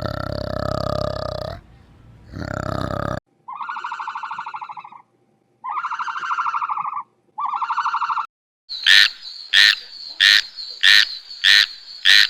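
Three pulsing croaking trills from a toad, each lasting one to one and a half seconds. Before them, a louder animal call ends and another short burst follows. After them come six sharp calls, evenly spaced about half a second apart.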